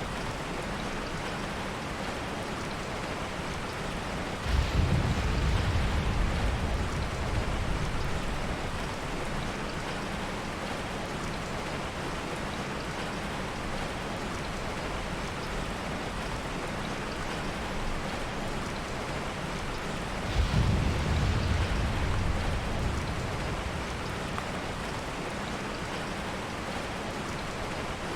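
Heavy rain falling steadily, with two low thunder rumbles that start suddenly, about four seconds in and again about twenty seconds in, each fading away over a few seconds.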